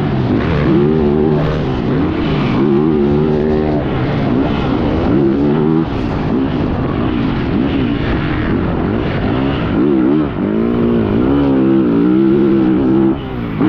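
Yamaha YZ450F motocross bike's four-stroke single-cylinder engine revving hard and easing off again and again, its pitch climbing and falling as the throttle is worked, with a few short lulls when it is shut off.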